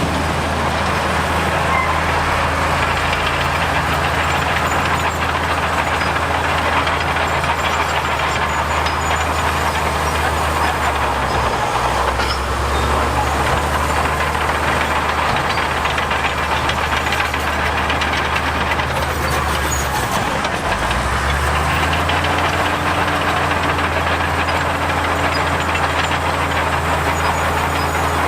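Heavy diesel construction machinery running under load, a steady low engine drone with a dense rumbling clatter over it. The engine note shifts about twelve seconds in, and again just after twenty seconds.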